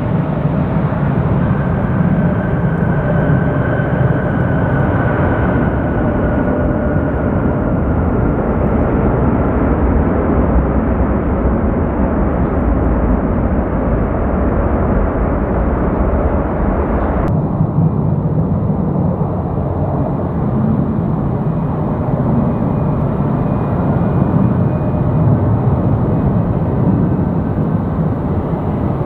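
Jet airliner arriving on approach: a steady, loud jet noise with a high whine that slowly falls in pitch. About two-thirds of the way in the sound changes abruptly to a similar steady jet noise.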